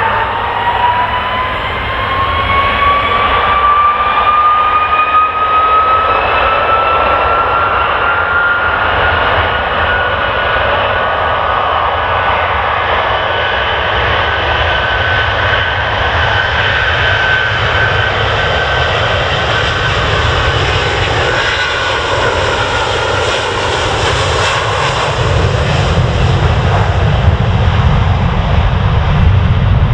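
Jet airliner engines running with a whine that rises in pitch over the first dozen seconds, holds, then sags a little, over a steady roar. A deep rumble grows louder near the end.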